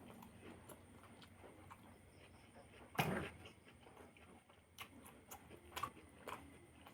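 Faint eating sounds: chewing with small mouth clicks and smacks, and one louder short knock or clatter about three seconds in.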